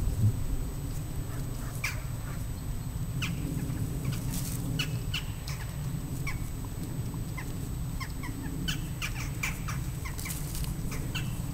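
Birds calling in short, irregular chirps throughout, over a steady low rumble.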